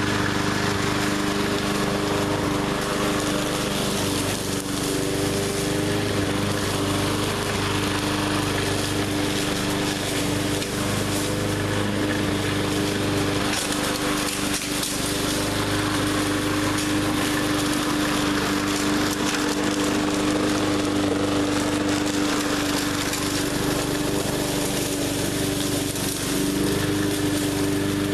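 20-inch walk-behind gas push mower running at a steady engine speed, its blade chopping through brush and woody stems with a crackling, splintering noise.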